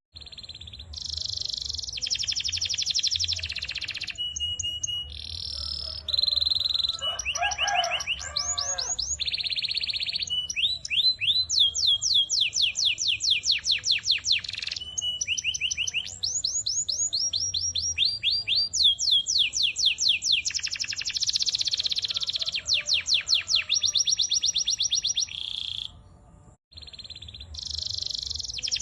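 White domestic canary singing a long song of fast trills and rapid repeated notes in phrases with short pauses, with a break about 26 seconds in.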